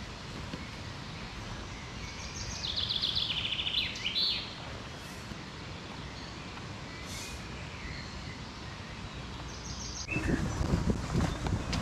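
A songbird sings a descending trill of quick high notes lasting about two seconds, and a shorter phrase later, over a steady outdoor hiss. About ten seconds in, wind starts buffeting the microphone with a low rumble.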